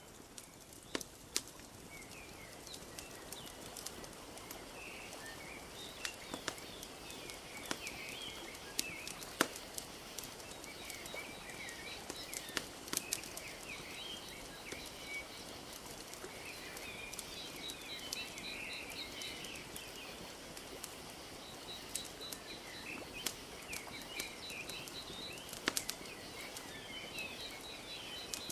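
Wood fire crackling with scattered sharp pops over a steady wash of gently lapping lake water, while small birds chirp and twitter throughout. A fast, high pulsed trill joins in the second half.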